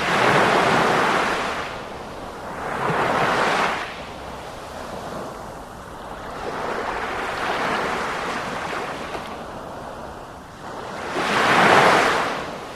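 Sea waves breaking, four swells of surf rising and falling every few seconds, the last one loudest.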